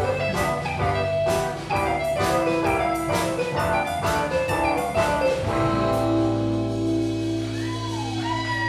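Band playing the closing bars of a cover song, with drum kit hits on the beat and changing chords, then settling about five and a half seconds in onto a long held final chord with a few sliding high notes over it.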